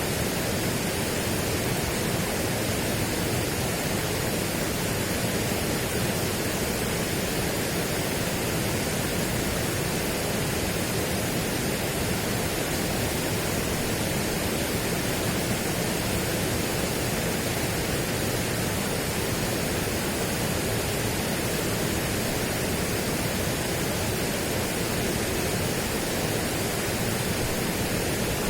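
Steady, unchanging rushing noise, even across low and high pitches, with no distinct events.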